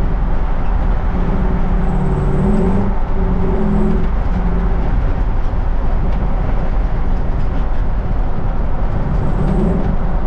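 A 1960 Ford F100 with a swapped-in Mustang 5.0-litre V8 being driven on the road: the engine runs under way over steady road noise, its note stepping up and down a few times in the first half.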